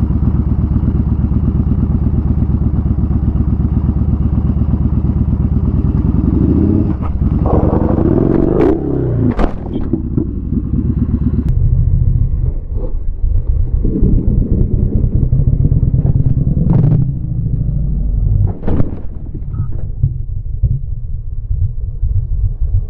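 Motorcycle engine running steadily, then changing pitch as the inexperienced rider keeps the throttle on without pulling the clutch; about a third of the way in come sharp clattering knocks and scrapes as the bike hits a rock and goes down, with more knocks later while the engine keeps running.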